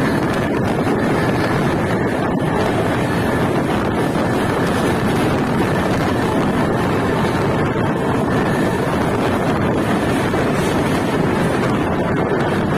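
Steady roar of wind buffeting the microphone mixed with the running noise of a passenger train's coaches moving at speed.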